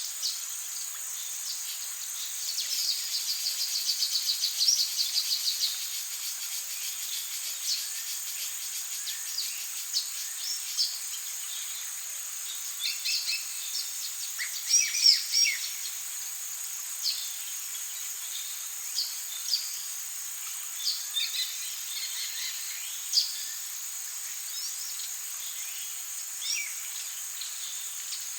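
Amazon rainforest ambience: a steady high insect drone with many short bird chirps and calls scattered throughout. A fast trill of rapidly repeated notes runs from about 2.5 to 5.5 seconds in, and a louder cluster of calls comes about halfway through.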